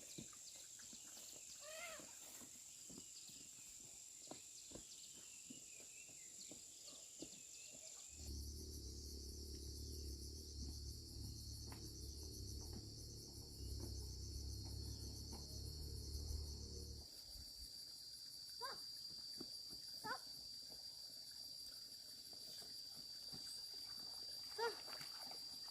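Insects buzzing steadily in high, even tones, with scattered faint clicks and a few short pitched calls. A low hum comes in for about nine seconds, starting about a third of the way in.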